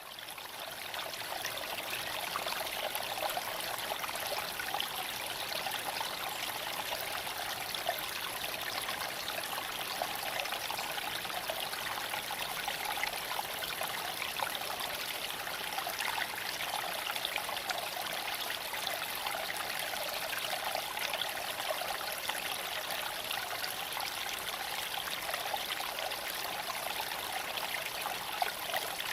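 Steady rushing road and wind noise inside a Tesla Cybertruck's cab while it is driven, an even hiss with little bass and no engine note.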